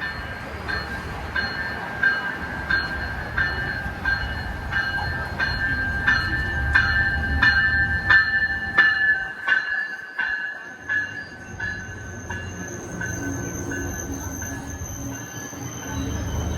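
Train rolling along the track with a steady high-pitched wheel squeal and a rhythmic clicking of wheels over rail joints, about one and a half clicks a second.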